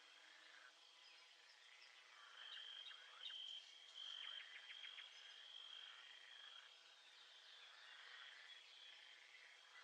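Faint nature-sounds ambience: a high, steady insect trill that breaks off and resumes, with scattered chirps and a short run of rapid ticks about halfway through.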